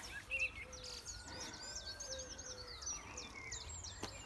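Several wild birds singing, a tangle of quick high chirps and trills with a lower call repeating underneath.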